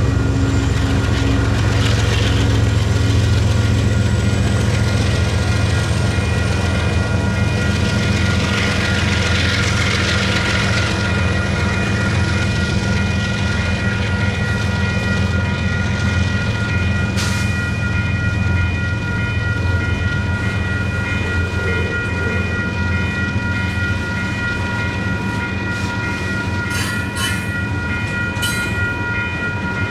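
Union Pacific double-stack intermodal freight train passing: diesel locomotive engines at first, giving way to the rumble and clatter of container well cars on the rails. Over it, the crossing's WCH Type 4 electronic bells ring steadily, with a few sharp wheel clicks near the end.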